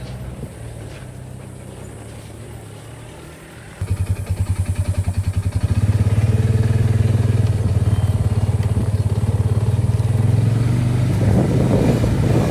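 An engine running quietly; about four seconds in it gets much louder, with a quick pulsing for a couple of seconds, then settles into a loud, steady low drone.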